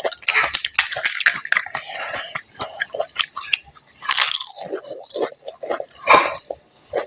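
Close-up eating sounds of pani puri: crisp fried puri shells crunching and cracking between the teeth, with wet chewing. Two longer hissing sounds about four and six seconds in.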